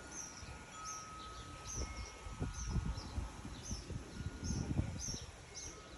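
Small birds chirping over and over, about two chirps a second. Low rumbles swell underneath, loudest around the middle and again about three-quarters of the way through.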